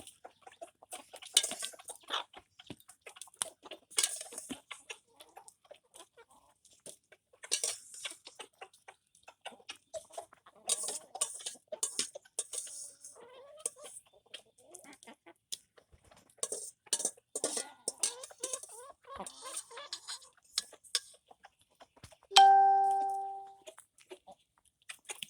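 Chickens clucking softly while pecking at food, with many quick sharp taps of beaks on a hard surface. Near the end a single loud metallic clang rings out and fades over about a second and a half.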